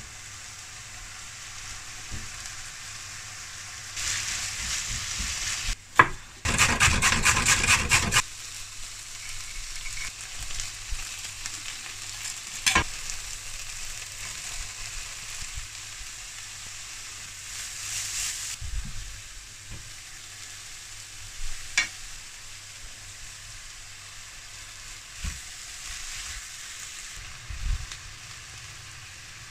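Minced beef and chopped vegetables sizzling steadily in a frying pan, with stirring and a few sharp knocks of a utensil on the pan. The sizzle swells briefly twice as fresh ingredients go in, and a loud rapid rattle lasting under two seconds comes about six seconds in.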